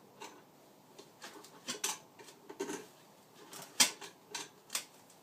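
Irregular metallic clicks and knocks of pliers on a compression-fitting nut while it is being tightened onto a valve, about eight or nine sharp taps with the loudest near the four-second mark.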